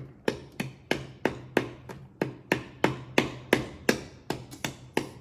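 Rapid, evenly spaced sharp metal taps, about three a second, from a hand tool chipping and scraping old gasket material off a Kohler K301 engine's gasket surface.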